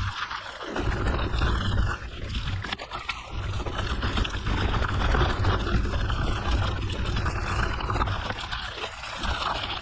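Wind buffeting the microphone with a gusting low rumble, over the rolling crunch of mountain bike tyres on a gravel forest road.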